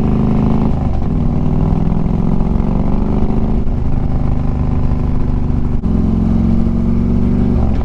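2013 Harley-Davidson Street Glide's Twin Cam 103 V-twin running through Vance & Hines True Duals exhaust while riding at a steady pace, with a brief drop in sound about six seconds in.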